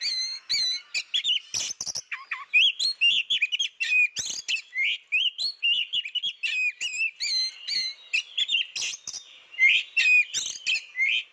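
Oriental magpie-robin (kacer) singing a rapid, varied song of whistles and chirps that sweep up and down in pitch, with a few sharp clicks in between.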